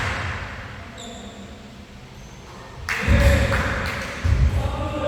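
Basketball bouncing on a gym floor: after a lull with a brief high sneaker squeak about a second in, two heavy bounces come about a second and a half apart, near three and four seconds in. Voices start calling out near the end.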